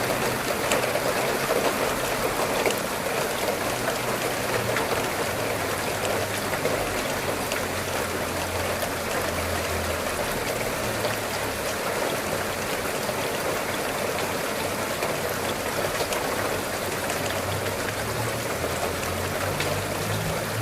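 Steady rain falling: a continuous, even wash of water noise with faint scattered drop ticks.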